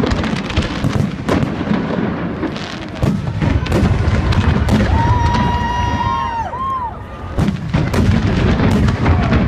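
Fireworks going off in quick succession: many sharp bangs over a continuous low rumble. About five seconds in, a high whistle holds for over a second and drops away at its end, followed by a brief second whistle.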